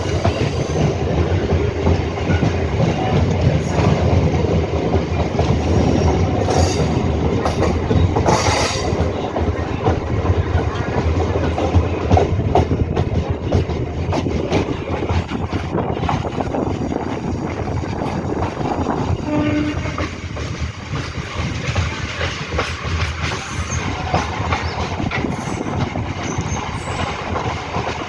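MEMU electric passenger train running along the track: a steady rumble with a dense clatter of wheels over rail joints, easing a little near the end.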